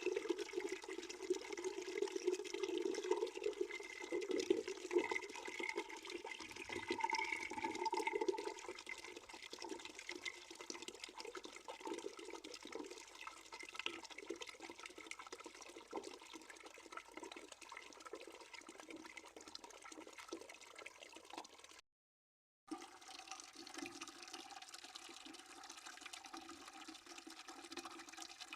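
Water running from a tap into a bucket, a steady splashing stream. It is louder for the first several seconds, then settles softer, and the sound cuts out completely for under a second about three-quarters of the way through.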